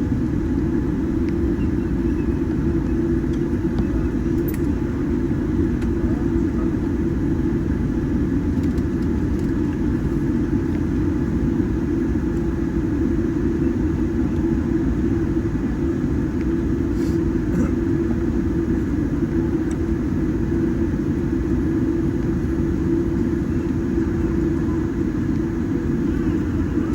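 Steady low rumble inside the cabin of a Boeing 787-10 taxiing after landing.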